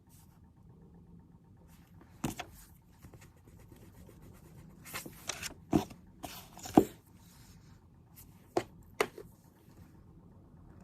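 Handling sounds at a study desk: a sharp tap about two seconds in, a cluster of taps with some paper rustling around five to seven seconds in, and two more taps near nine seconds.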